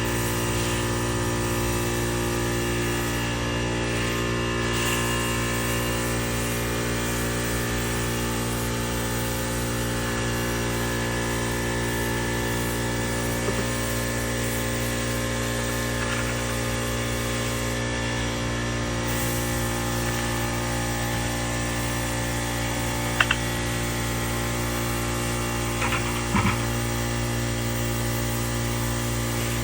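A motor running steadily with an even, unchanging hum, with a few short clicks or knocks near the end.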